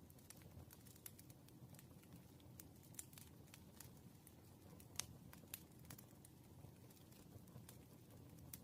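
Faint desk noise of someone solving problems on paper: scattered light ticks and taps of a pen, irregular, with one sharper click about five seconds in, over a low steady room hum.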